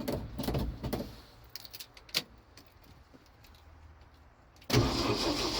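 Rattling clicks in the truck cab as the gas pedal is pumped, then near the end the starter of a 1966 Ford F500's industrial 240 inline-six suddenly kicks in and cranks steadily without the engine catching, which the owner takes for a battery that needs a jump.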